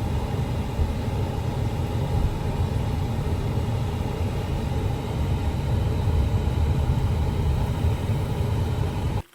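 Steady low rumble of a moving car heard from inside the cabin, which cuts off abruptly near the end.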